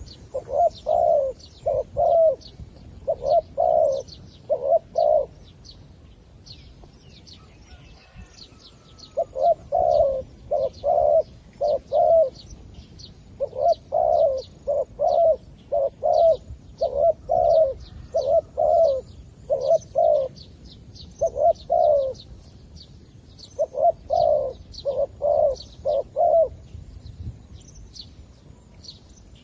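Decoy zebra dove cooing in bouts of quick, staccato notes, several to a bout, with a gap of a few seconds after the first two bouts. Small birds chirp faintly throughout.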